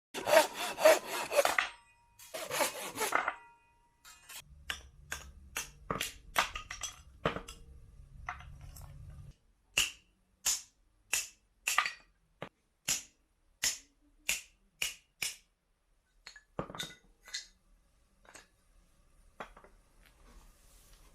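Firewood being worked by hand for a camp fire: two rough sawing or rubbing strokes, then a long series of sharp wooden knocks, about one or two a second, thinning out to a few scattered knocks near the end.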